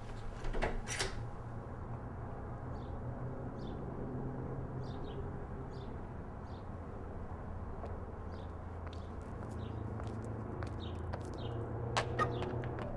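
Small birds chirping in short repeated calls over a steady low outdoor hum. A door clicks shut near the start, and a few handling clicks come near the end.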